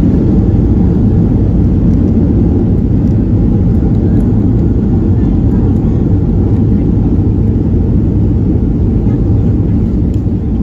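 Loud, steady low rumble of a Boeing 737-800 heard from inside the passenger cabin, easing a little near the end.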